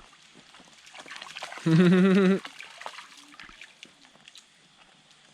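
Shallow stream water trickling and splashing over rocks with small knocks and clicks throughout, broken about two seconds in by one short, loud, wavering vocal call lasting under a second.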